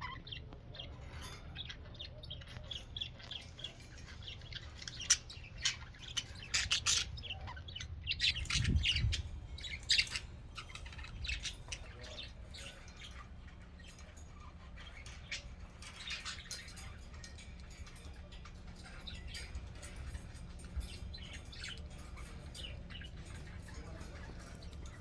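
Budgerigars chirping and chattering in short, irregular calls, busiest in the first half, over a steady low hum. There is a brief low rumble about nine seconds in.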